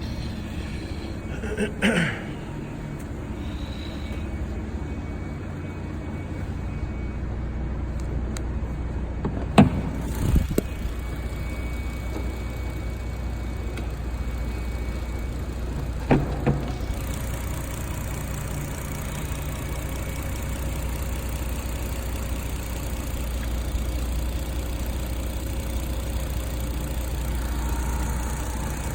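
Toyota Supra Twin Turbo's 2JZ-GTE twin-turbo inline-six running at a steady idle, a low hum throughout. A few short, sharp knocks stand out about two, ten and sixteen seconds in.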